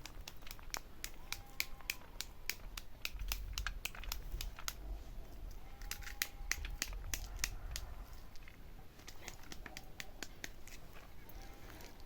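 Irregular crinkling and crackling, many sharp clicks a second, like something dry or papery being handled or stepped on.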